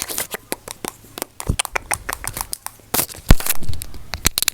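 Close-up ASMR trigger sounds right at the microphone: a rapid, irregular run of sharp clicks and taps, with a heavier thump about three seconds in.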